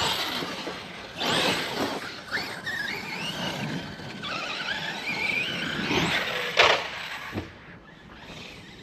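Brushless electric motors of large-scale RC cars whining, the pitch gliding up and down with the throttle, over a rough hiss. A thump comes about six and a half seconds in.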